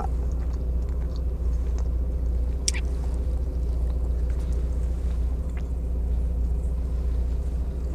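Steady low rumble of an idling car heard inside the cabin, with a few faint mouth clicks from chewing a burger.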